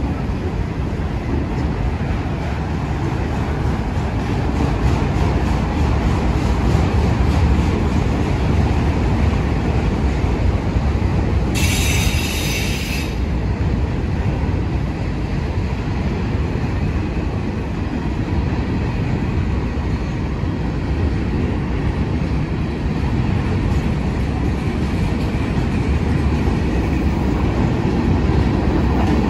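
Freight cars (autoracks, then covered hoppers) rolling past below, a steady low rumble of steel wheels on rail. About twelve seconds in, a wheel gives a brief high squeal.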